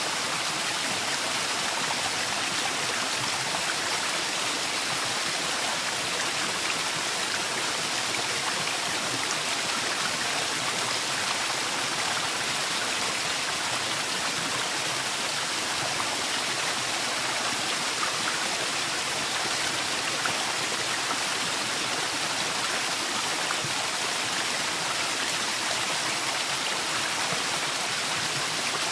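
Forest waterfall: falling water with a steady, even rush.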